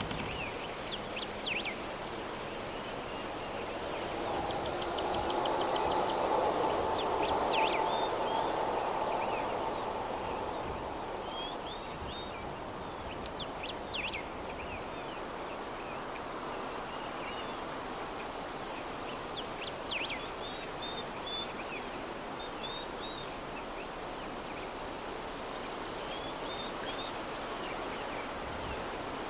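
Soft, steady breeze with small birds chirping in short bursts every few seconds. The breeze swells louder for several seconds near the start, carrying a faint hum, then settles back.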